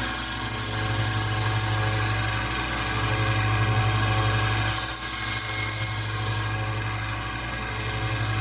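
Rikon 1x30 belt sander running steadily, with a Swiss Champ army-knife blade ground freehand against the belt in two passes of about two seconds each, each heard as a loud rasping hiss over the motor's hum.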